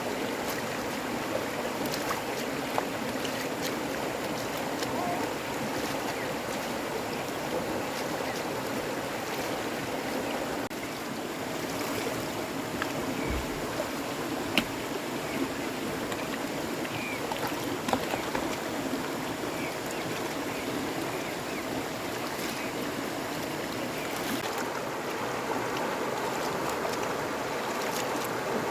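Steady rush of running water, with scattered light clicks and knocks over it.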